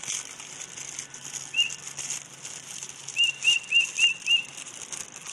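A bird chirping: a short, sharp note with a hook at the end, once and then five times in quick succession about three to four and a half seconds in, over a steady high hiss.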